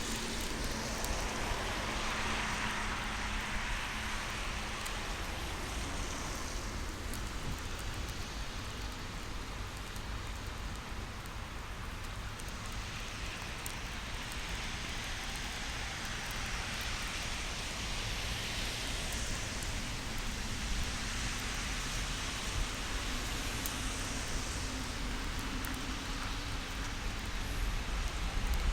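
Steady outdoor hiss of wind and rustling with no distinct event. Near the end the sound of an approaching Shinkansen train begins to rise.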